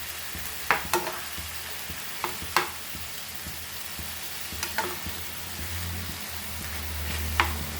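Chicken sizzling as it fries in hot oil over a high flame, with a spoon scraping and knocking against the pan several times as the pieces are turned.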